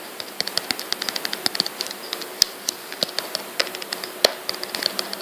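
Rapid, irregular keyboard typing clicks as a chat message is typed out, with a pause now and then and a couple of sharper taps.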